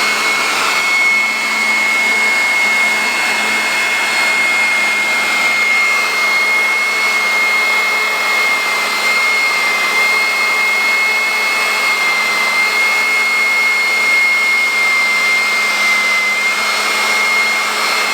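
INNTech IT-4014 850-watt electric blower running in vacuum mode with its dust bag fitted, sucking up spilled powder. It gives a steady high motor whine over a hiss of air, at constant speed throughout.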